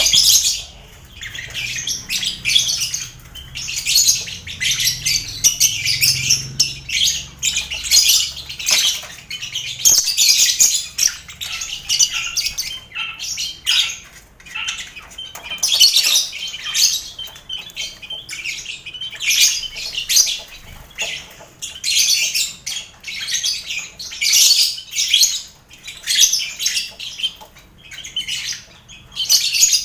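A colony of lovebirds chattering and giving shrill squawks, mixed with finches chirping. The calls come in busy bursts every second or two, with short lulls between.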